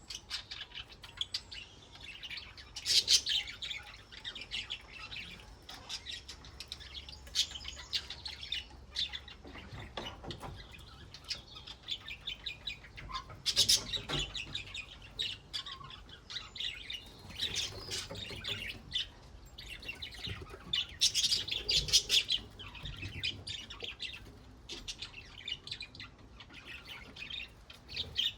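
Budgerigars chirping and warbling, a busy run of short high chirps with louder bouts every few seconds.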